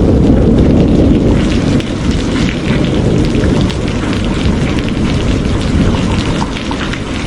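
Steady heavy rain with individual drops ticking, and a low rumble of thunder that is strongest at the start and fades over the first two seconds.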